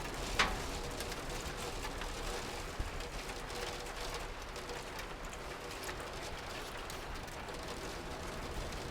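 Steady rain falling, an even hiss with scattered faint taps, and one short, sharp tap about half a second in.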